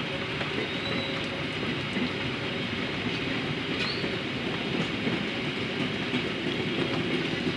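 Local passenger train rolling out of the station, its wheels running steadily on the rails, with a couple of short, high wheel squeals about one and four seconds in.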